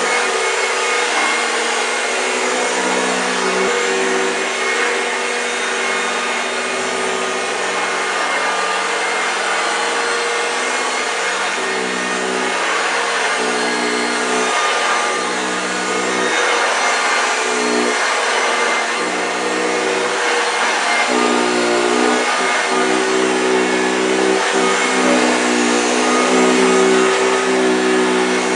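1965 Hoover Junior 1334A upright vacuum cleaner running over carpet with a growling sound, its motor note shifting up and down about every second or two as it is pushed back and forth. The owner says it sounds a bit dry.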